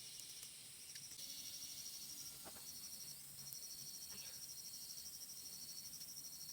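Insects trilling: a faint, steady, high-pitched pulsing trill that breaks off briefly a couple of times, with a few faint clicks.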